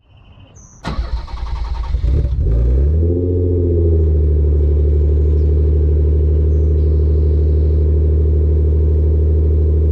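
A car engine cranking, catching and rising in revs, then settling about three seconds in to a steady idle.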